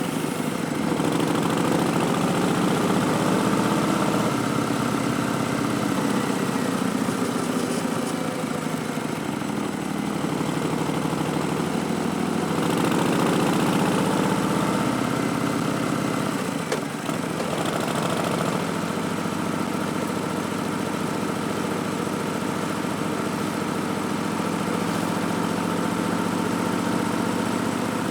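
Harley-Davidson Street Bob's Milwaukee-Eight V-twin running under way through Vance & Hines Twin Slash slip-on mufflers, its revs slowly rising and falling, with a brief dip about 17 seconds in.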